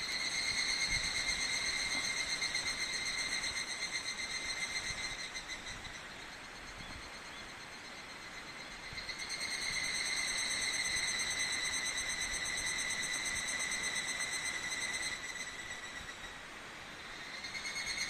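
Higurashi (evening cicada) singing a ringing, rapidly pulsing call in three bouts: one at the start that fades out, another swelling in about halfway through and fading, and a third beginning near the end.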